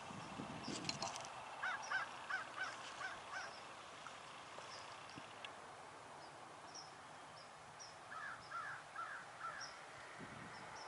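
Faint bird calls: two runs of short repeated calls, about six then about four, over scattered thin high chirps from smaller birds.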